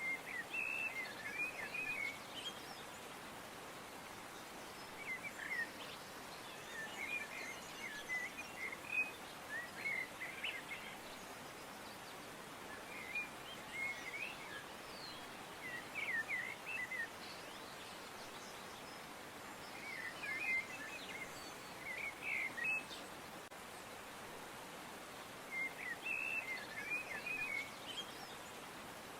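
Songbirds chirping in short bouts of quick, high twittering a few seconds apart, over a steady background hiss.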